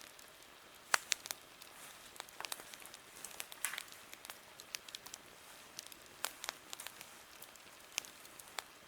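Wood campfire crackling: irregular sharp pops and snaps over a faint steady hiss, the loudest pop about a second in.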